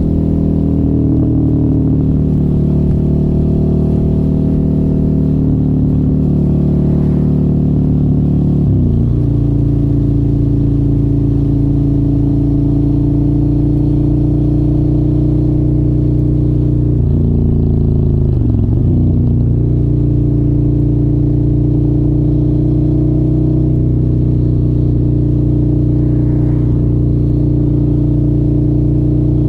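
Suzuki motorcycle engine with an aftermarket exhaust, running steadily while being ridden. Its note dips sharply and recovers twice, about 9 seconds in and again a little past the middle.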